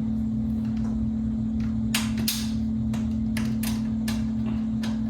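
Irregular light clicks and taps of a screwdriver and grill screws working on a box fan's metal grill during reassembly. A steady low hum runs underneath.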